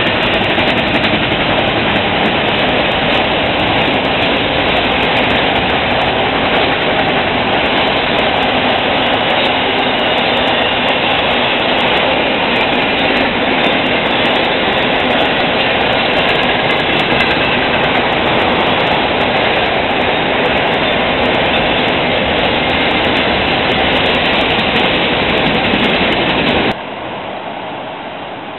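Freight train of autorack cars rolling past at speed: a loud, steady rush and rattle of wheels on rail. It cuts off suddenly near the end, leaving a quieter steady hiss.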